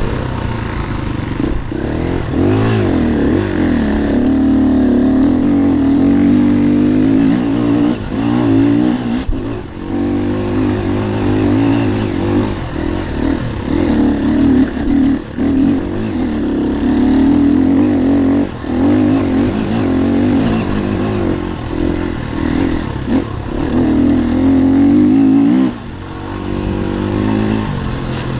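Enduro dirt bike engine running under a rider, revving up and down as the throttle opens and closes, with short drops in level a few times.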